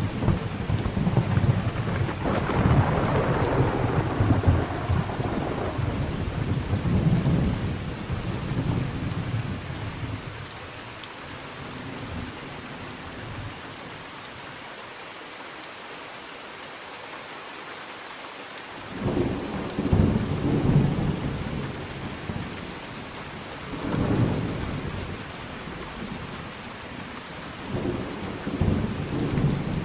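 Thunderstorm with steady rain: a long roll of thunder dies away over the first ten seconds, leaving rain alone, then three shorter rumbles of thunder come in the second half.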